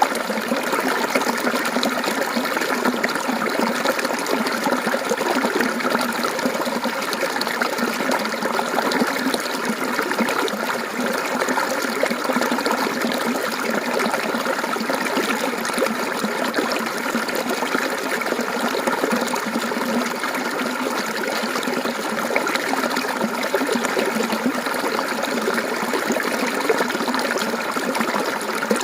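Mountain stream water flowing and gurgling over rocks, a steady rushing trickle.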